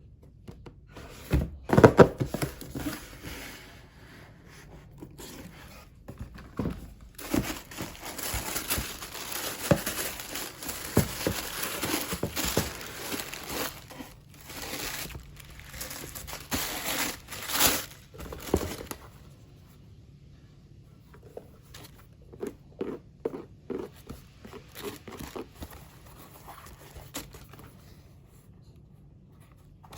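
Packaging crinkling and rustling as it is handled, with scattered knocks and taps. The rustling is thickest through the middle, then gives way to lighter handling clicks.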